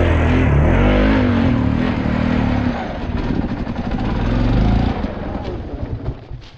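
Dirt bike engine revving hard under load on a climb. The revs fall off a little under three seconds in, build again, then drop away near the end.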